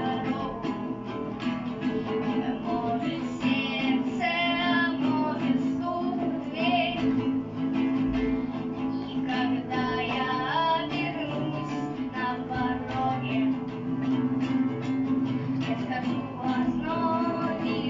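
Rock band playing a song live: a voice singing the melody over strummed guitar chords.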